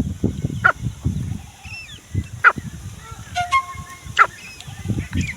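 Grey francolin (teetar) calling: three sharp, loud calls about a second and three quarters apart, over continual low rustling and knocking.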